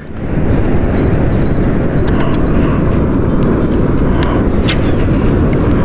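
Wind buffeting the microphone: a steady, loud low rumble with faint clicks scattered through it.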